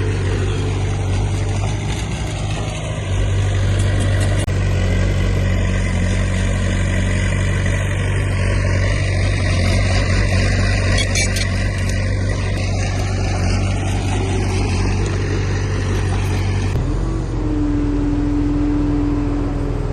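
Heavy diesel engine of earthmoving equipment running steadily with a deep hum. The sound changes abruptly about four and a half seconds in and again about seventeen seconds in, and after the second change a steady higher whine comes in.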